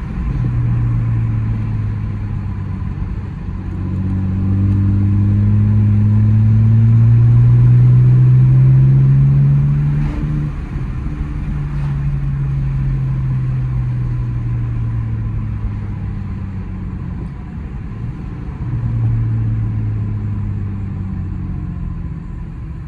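BMW E82's N52 inline-six, muffler-deleted, heard from inside the cabin pulling hard. The exhaust note climbs steadily, breaks sharply about ten seconds in, then falls away as the car eases off, with one more short pull near the end.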